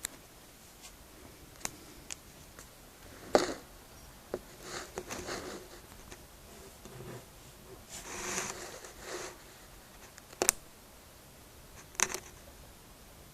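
Handling noises of a small model airliner and its packaging: soft rustling in two stretches and three sharp clicks.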